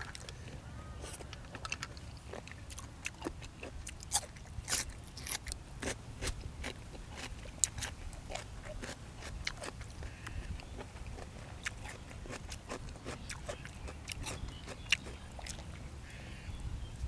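Close-miked eating of boiled field snails and raw vegetables: chewing and crunching with many irregular sharp clicks and ticks.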